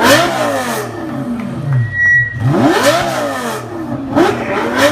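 Lamborghini Gallardo Superleggera's V10 engine revved in sharp blips, its pitch climbing and falling three times about two seconds apart.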